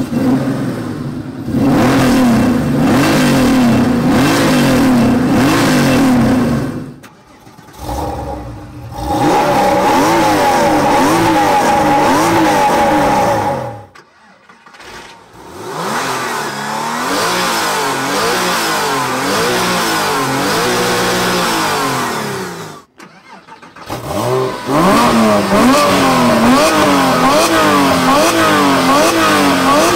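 Porsche 911 flat-six engines revved at standstill, heard from the exhaust, one car after another with short pauses between. First an air-cooled 1992 964 Carrera RS is held at a steady high rev. Later water-cooled 911s, a 1997 996 Carrera and a 2005 997 Carrera 4S, are blipped up and down repeatedly.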